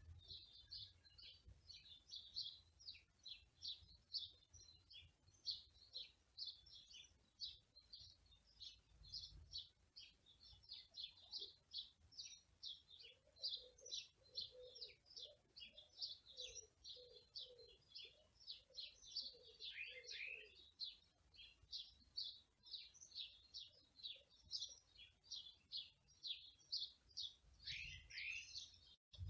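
Songbirds chirping and twittering in a dense, unbroken chorus of quick high notes. About halfway through, a lower call repeats several times for some seconds.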